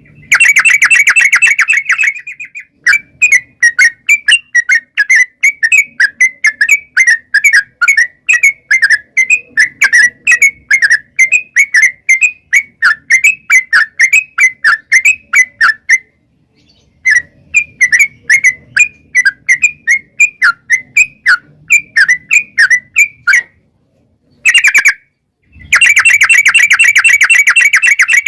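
Yellow-vented bulbul (trucukan) singing: a dense, fast rolling trill at the start and again near the end, and between them quick chirping notes about three a second, broken by a short pause a little past halfway.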